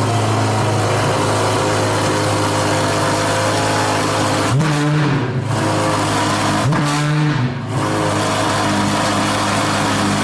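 C8 Corvette Z06's flat-plane-crank V8 idling steadily through a newly fitted aftermarket exhaust. It is blipped twice near the middle, each rev rising briefly and dropping back to idle.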